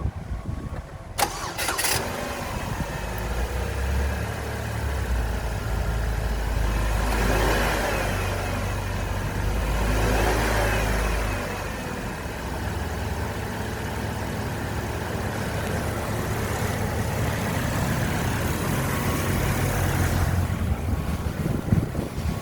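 2012 Holden Captiva engine cranked and catching about a second in, then running at idle, blipped up in revs twice around the middle and settling back to a steady idle.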